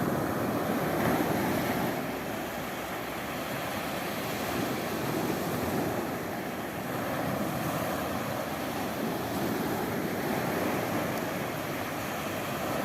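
Mediterranean Sea surf: a steady rush of waves that swells and eases every few seconds.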